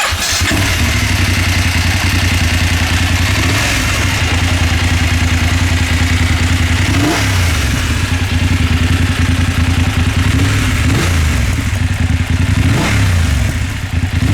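BMW F 850 GS parallel-twin engine firing up for the first time through a newly fitted Akrapovic exhaust, catching at once and settling into a steady idle. The throttle is blipped briefly about halfway through and twice more near the end.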